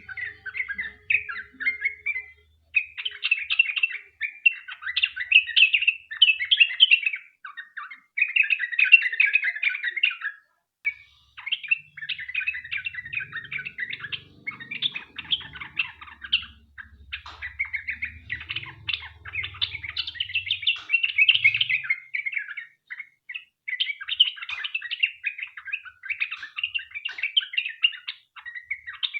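Yellow-vented bulbul (trucukan) singing a long, rapid chattering song in dense phrases of a second or two, broken by short pauses.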